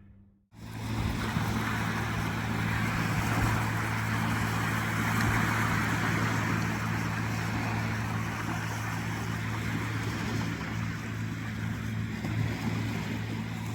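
A motor running steadily with a constant low hum, over an even rushing noise. It starts abruptly about half a second in.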